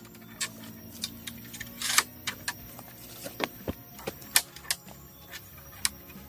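A series of irregular sharp knocks and clicks, a dozen or more spread unevenly, some louder than others, like hard material being tapped or handled.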